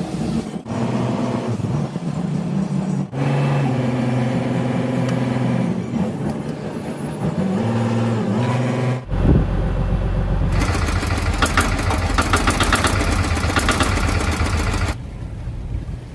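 Engines running in a string of short clips cut together, the pitch shifting in places. In the second half a deeper engine sound runs under a fast, loud rattling clatter.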